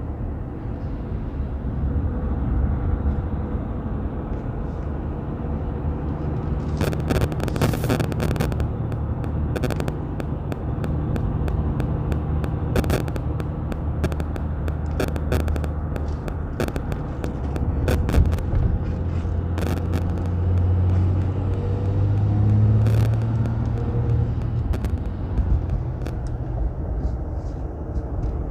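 3.0-litre V6 turbodiesel of a Ram EcoDiesel pickup droning under load on a hill climb, heard from inside the cab, with the intake whoosh of an aftermarket turbo inlet pipe. The engine note grows louder and slightly higher about three-quarters of the way through, over scattered sharp clicks and knocks, bunched about a quarter of the way in.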